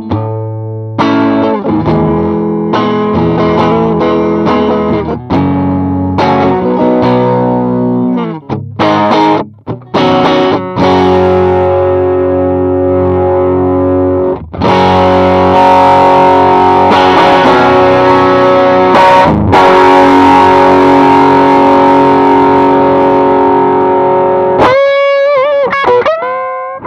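Electric guitar played through a 68 Pedals Inca Kola, a Zendrive-style overdrive pedal, with a mildly driven tone. It plays a run of chords and short phrases, then one chord left to ring for about ten seconds, then a few single notes with wide vibrato near the end.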